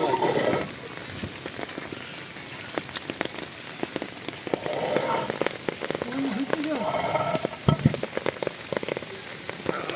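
Steady rain falling, with many separate drops pattering irregularly on water and ground.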